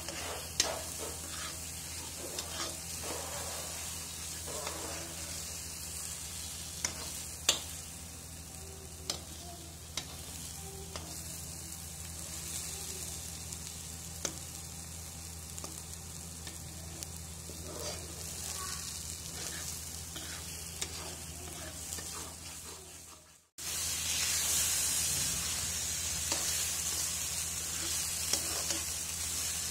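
Ground mustard-and-garlic spice paste sizzling in hot oil in a kadhai while a metal spatula stirs it, scraping and clicking against the pan. After a brief drop-out about three-quarters of the way through, the sizzle is louder.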